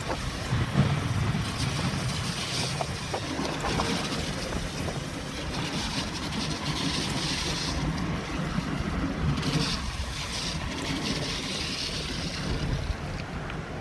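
Steady road and tyre noise of a car driving on a rain-soaked road, heard from inside the cabin through a dashboard camera, with a hiss that swells and fades several times over a low rumble.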